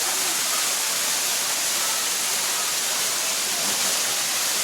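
Waterfall over limestone in heavy flow: a steady, even rush of falling water.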